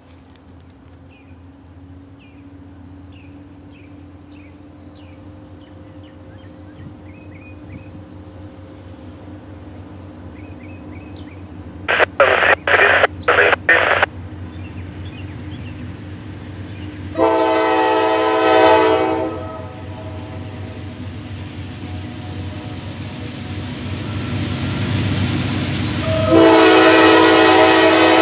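Diesel locomotive approaching, its low rumble building, as its air horn sounds: a quick run of short blasts, then one long blast, then another long, louder blast near the end as the train draws close. Birds chirp faintly at first.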